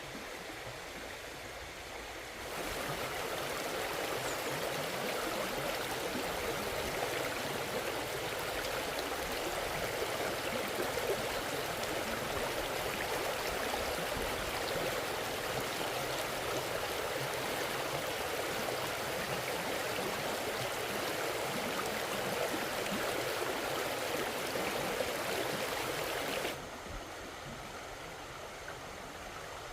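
Steady rush of flowing water. It gets suddenly louder a couple of seconds in and drops back just as abruptly near the end.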